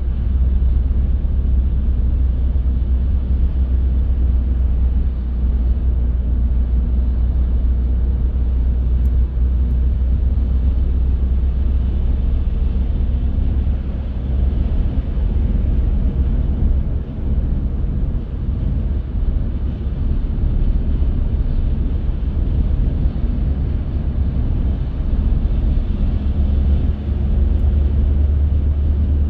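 A car driving at steady speed: a continuous low road and engine rumble with tyre noise, easing slightly for a moment just past the middle.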